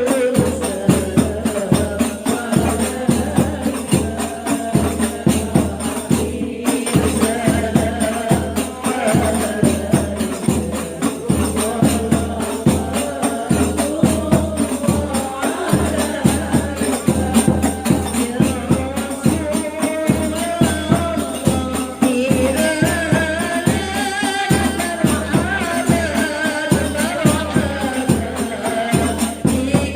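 Women singing sholawat in chorus over hadroh frame drums and tambourine-like jingles, the drums keeping a steady, fast beat.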